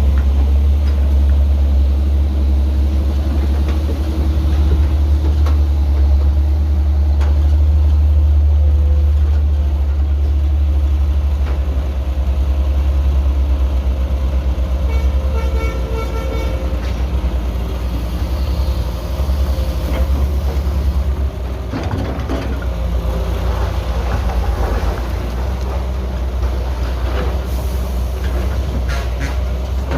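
Heavy diesel engines of an excavator and a dump truck running with a steady low rumble. A brief pitched tone sounds about halfway through, and scattered knocks follow in the second half.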